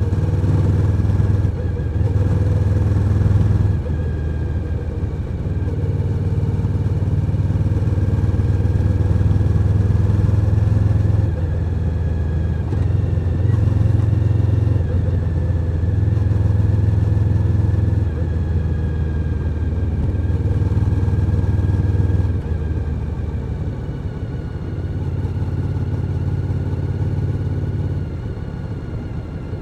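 Suzuki SV1000N's 90-degree V-twin running under way. The engine note holds steady and then eases off a few times as the throttle is rolled back, most clearly about two-thirds of the way through and near the end.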